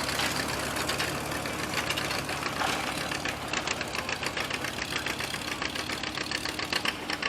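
Gasoline farm tractor engine running, with a rapid, even exhaust beat that becomes clearer about halfway through.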